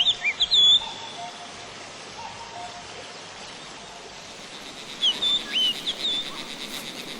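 Wild songbirds calling: a few short whistled chirps that sweep in pitch near the start and again about five seconds in, over a steady background hiss. A fast, high trill starts near the end.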